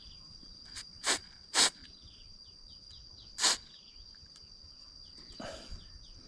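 Three short, sharp puffs of air blown onto brush-cutter carburettor parts to clear out dirt: two close together about a second in and one more a couple of seconds later, then a softer breathy puff near the end. A steady high insect whine runs underneath.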